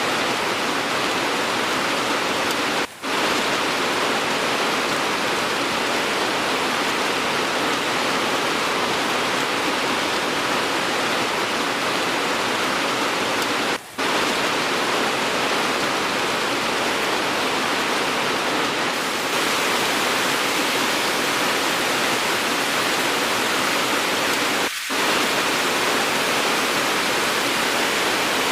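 Steady, dense rain hiss from an edited rain-sound recording, broken by three brief dropouts where the recording is spliced.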